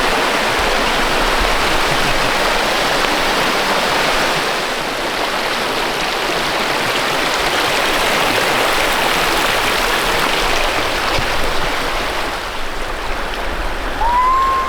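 A small river's water rushing steadily. Near the end comes a brief high tone that rises, holds and falls.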